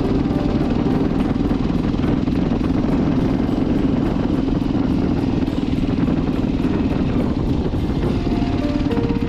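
Motorcycle engine running steadily under way, with background music faintly beneath it and a few melody notes coming through near the end.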